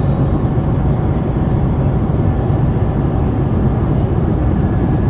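Steady airliner cabin noise: the even rumble of the jet engines and rushing air inside the plane.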